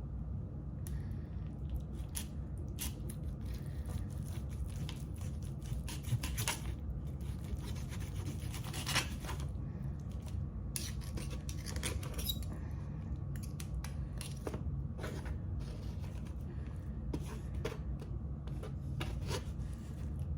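A knife cutting into a baked chicken Parmesan on a plate: irregular scraping and clicks of the blade against the plate, over a steady low hum.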